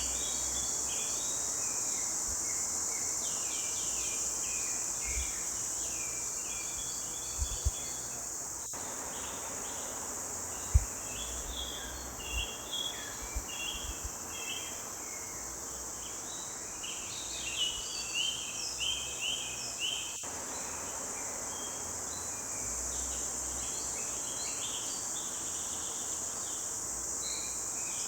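Several songbirds singing short chirps and trills over a steady, high-pitched insect drone. A few soft low thumps come in the middle.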